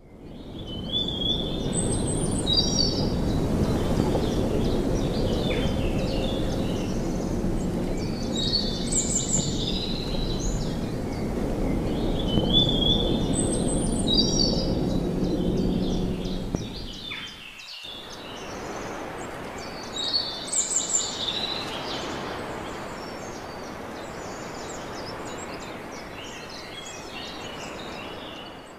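Outdoor ambience of birds chirping in short repeated high phrases over a steady low background noise. The background noise drops suddenly about two-thirds of the way through and carries on quieter, with the birds still calling.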